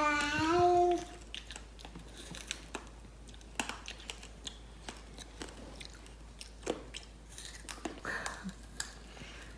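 Chewing and crunching on candy-apple slices, the hard sugar coating cracking between the teeth in scattered sharp crunches. A child's voice makes a drawn-out sound at the very start.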